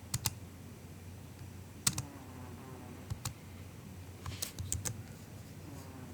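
Soft MacBook keyboard keystrokes, sparse and irregular, with a short flurry of taps about four and a half seconds in.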